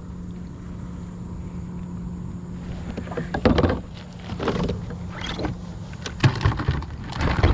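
A series of irregular knocks and clatters on a plastic kayak as a blue crab and crabbing gear are handled, starting about three seconds in, over a steady low hum.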